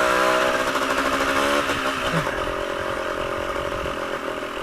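Yamaha DT125's two-stroke single-cylinder engine running under way, the revs rising at the start and then holding steady before easing off after about a second and a half.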